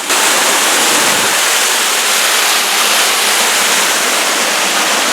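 Rushing water of a mountain river running through a rocky canyon, a steady, loud, even roar.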